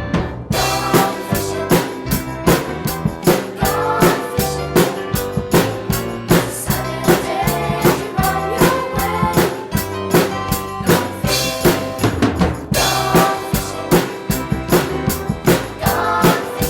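Drum kit played along to a recorded instrumental backing track, keeping a steady beat; the drums come in about half a second in.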